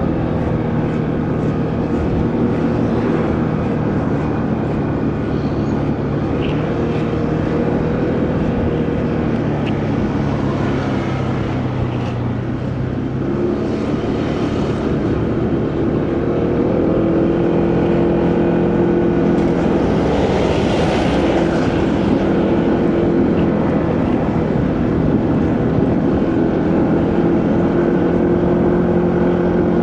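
Motorcycle engine running steadily under way, with wind and road noise. The engine note eases off about 12 seconds in and picks up again a few seconds later, and there is a brief rush of noise about 20 seconds in.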